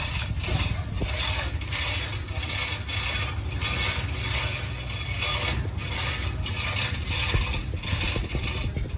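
Repeated mechanical tool strokes, roughly two a second, over a steady low rumble, in the course of repair work on a bus axle.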